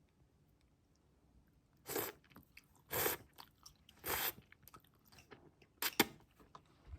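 Someone eating: a few short, crisp mouth sounds about a second apart, with two in quick succession near the end.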